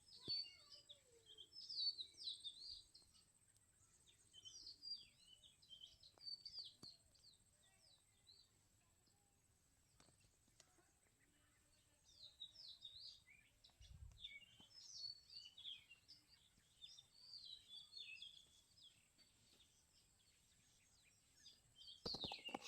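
Small birds chirping in bouts of quick, high calls, with quieter spells in between. A single soft low thump comes partway through.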